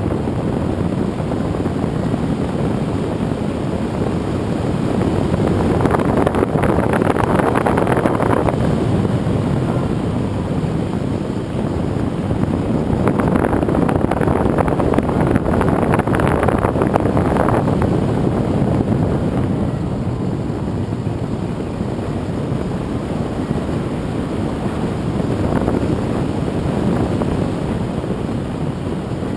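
Wind rushing over the microphone of a camera carried on a radio-controlled airplane in flight, mixed with the noise of its propeller. The noise is steady and swells louder several times.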